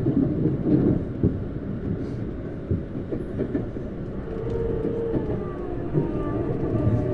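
Tokyu Series 9000 electric train running, heard inside a motor car: rumbling with wheel-on-rail knocks. About four seconds in, the whine of its Hitachi GTO-VVVF traction inverter comes in as steady tones, with more tones joining near the end.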